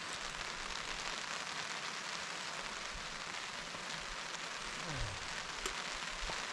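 Steady rain falling, a constant hiss with a few scattered drop ticks and one sharper click near the end.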